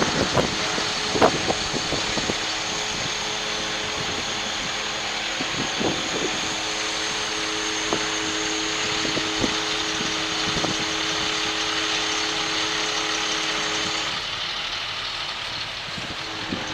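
Diesel engine of a 2005 Sterling tandem-axle flatbed truck running steadily, with a steady whine over it that stops a few seconds before the end, leaving the engine a little quieter. A few light knocks early on.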